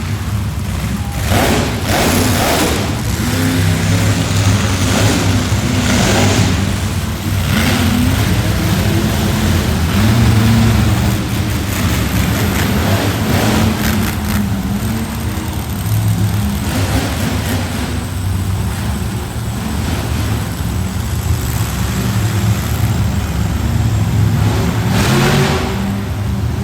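Monster truck engine running loudly in an indoor arena, its note shifting up and down as it revs.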